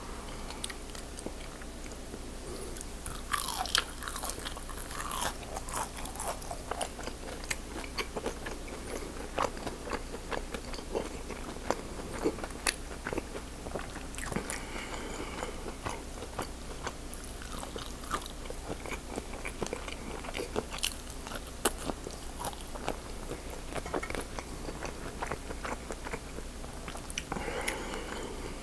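Close-up eating sounds: biting into and chewing a crispy fried breaded stick dipped in marinara, with crisp crunches, loudest about three to five seconds in, and smaller crackles and mouth clicks through the rest.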